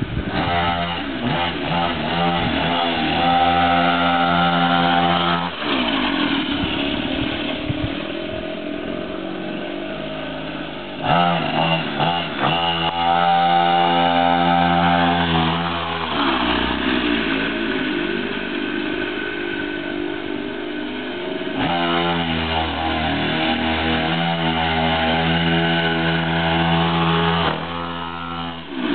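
Small mini dirt bike engine revving up hard three times, each run lasting about five seconds, with lower, quieter running between the runs.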